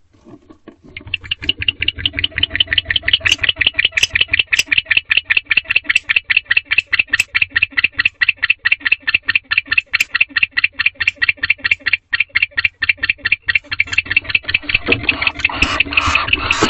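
Barn owl calling in the nest box, a fast, even series of short rasping pulses, about six a second. It starts about a second in and grows louder and busier near the end.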